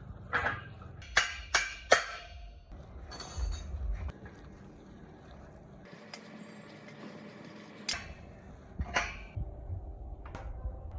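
A series of sharp knocks and clatters on hard objects: three in quick succession about a second in, a short scraping rush soon after, and two more knocks near the end.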